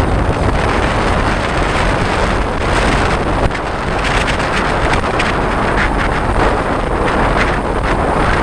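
Wind rushing over the microphone in a steady loud hiss, over a continuous low rumble from a boat.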